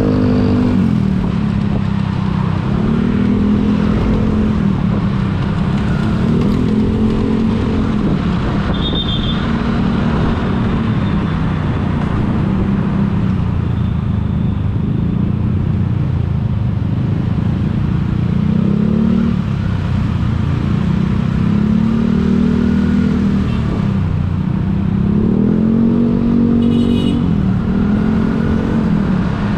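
Road vehicle engine whose pitch rises and falls again and again as it speeds up and eases off, over steady road noise.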